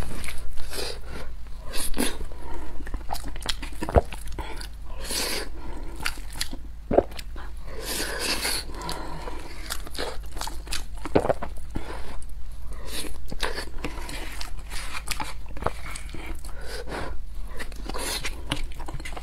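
Eating sounds: a person chewing and smacking on mouthfuls of curry rice, with a wooden spoon clicking and scraping against the bowl.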